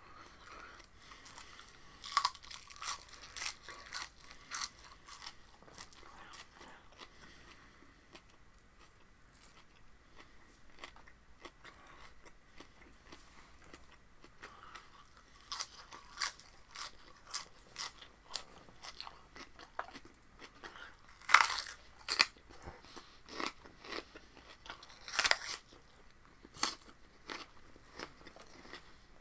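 Close-up crunching and chewing of raw spinach stalks, crisp sharp crunches coming in spells: a run near the start, quieter chewing in the middle, then a denser run with the loudest crunches about three-quarters of the way through.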